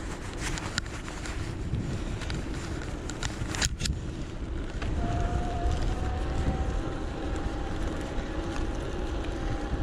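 Electric bike being ridden: low rumble of wind on the action camera's microphone and tyres on the road, with a few sharp rattling clicks in the first few seconds. From about five seconds in, a faint steady whine of the pedal-assist motor.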